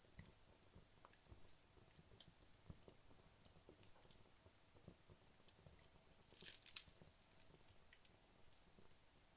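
Faint crackling of burning wood logs in a fireplace: scattered small pops and ticks, with a brief flurry of crackles about six and a half seconds in.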